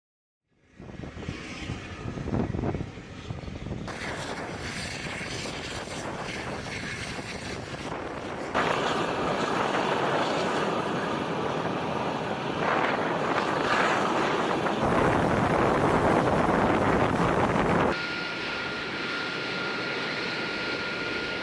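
KC-135 tanker's jet engines running, a loud, steady rushing noise that jumps in level at several cuts. A thin steady whine sits over it in the last few seconds.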